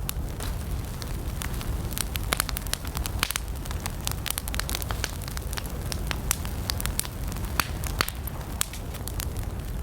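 Wood campfire burning, with many irregular sharp crackles and pops over a steady low rumble of the flames.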